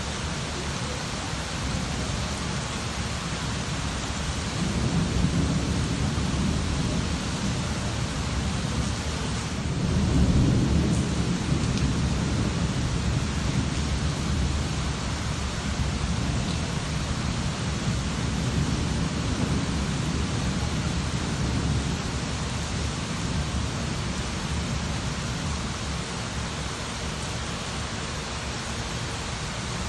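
Steady rain falling, with low rolling rumbles of thunder that swell about five seconds in, most strongly around ten seconds in, and again more faintly near the middle.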